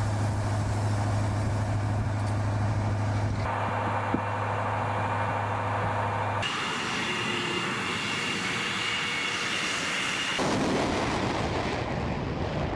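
Military jet aircraft engine noise in several spliced clips, changing abruptly about every three seconds. A steady low hum runs under the first half, and a thin high whine runs through the third clip.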